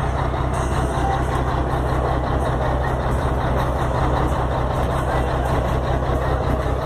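Scania truck's diesel engine idling steadily at a low pitch.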